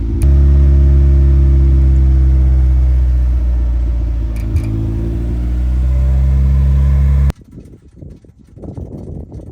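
Honda CRX Si race car's four-cylinder engine running warm at a fast idle. Its speed steps up just after the start and holds steady, with a few light clicks. It cuts off suddenly about seven seconds in, around when the fuel pump toggle switch snapped.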